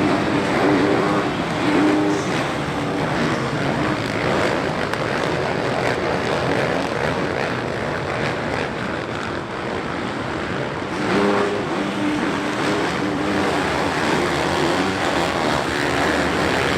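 Dirt bike engines running hard at race pace, their pitch rising and falling as they are revved.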